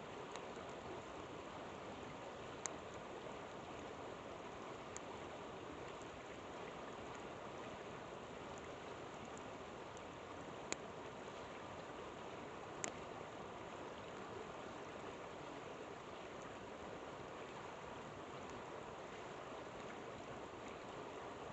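Steady rush of a flowing river, with a few sharp pops from a crackling campfire scattered through it, the loudest near a quarter and about halfway through.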